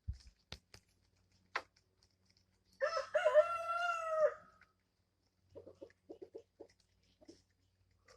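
A rooster crows once, about a second and a half long, about three seconds in; afterwards chickens cluck quietly in short bursts.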